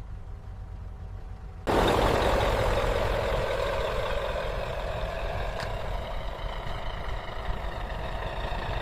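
A heavy vehicle engine rumbling steadily. About two seconds in, a sudden loud rushing hiss starts and slowly eases off.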